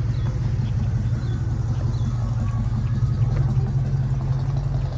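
A car engine idling steadily, a low even rumble.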